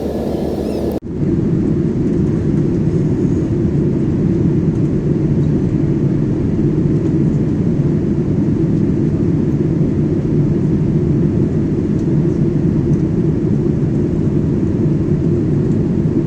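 Airliner engine noise: a loud, steady, low rumble that begins abruptly about a second in and holds even throughout.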